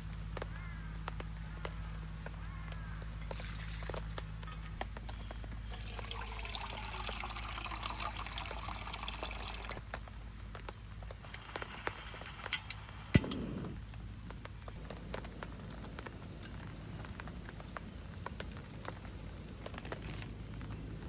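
Liquid poured into a pot for about four seconds, starting about six seconds in. A shorter pour follows, then a sharp clank about thirteen seconds in.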